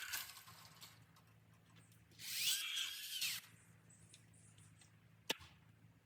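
A small power tool runs briefly about two seconds in, its pitch rising and then falling as it spins up and down. A single sharp click follows near the end.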